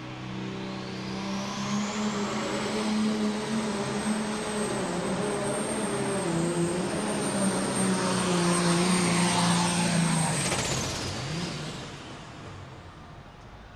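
Pro stock pulling tractor's turbocharged diesel engine running at full load down the track, its turbocharger whine climbing to a high steady scream within about two seconds and holding. About ten seconds in, the whine slides down and the engine noise falls away as the run ends.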